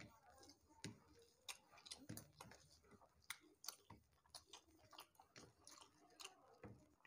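Faint chewing and wet mouth clicks from people eating rice and fish curry by hand, with many short, irregular clicks throughout.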